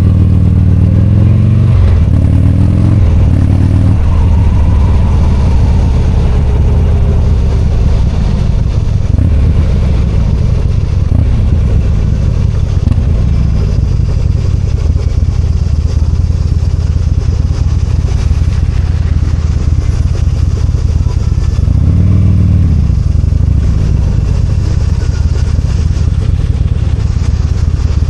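V-twin motorcycle engine running on the move, revving up and easing off through the gears a few times, most clearly near the start and again about two-thirds of the way through.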